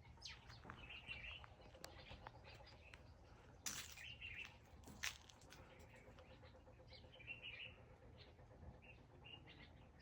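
Faint small-bird chirps and twitters coming in short bursts several times over a low steady background rumble, with two sharp clicks near the middle that are the loudest sounds.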